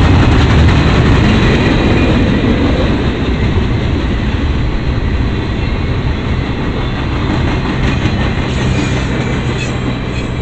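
Freight cars of a CSX work train rolling past, a steady loud rumble of wheels on rail that eases slightly toward the end.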